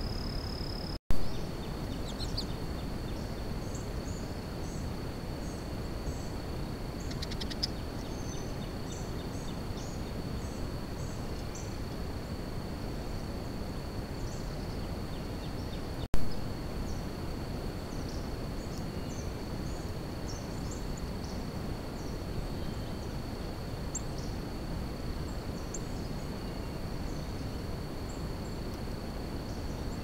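Steady outdoor background noise from a trail camera, with small birds chirping faintly many times over a steady high thin tone. Two sharp clicks, the loudest sounds, come about a second in and about halfway through, where the recording cuts from one clip to the next.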